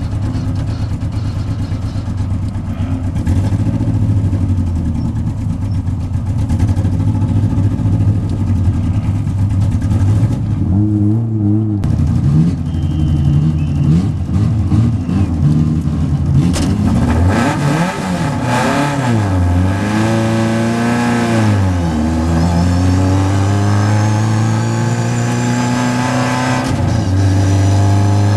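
Vintage Triumph race car's engine heard from inside the cockpit, revving up and dropping back sharply several times as it is shifted and slowed for corners, then pulling steadily higher in pitch near the end.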